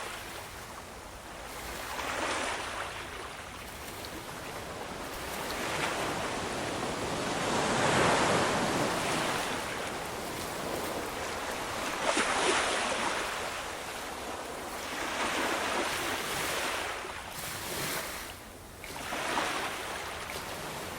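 Ocean waves breaking and washing onto a shore, a steady rush that swells and ebbs with each wave, about five surges in the span.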